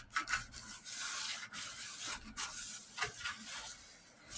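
A cloth rubbing in quick, irregular strokes over a truck's front body panel, wiping it clean of dust before primer goes on.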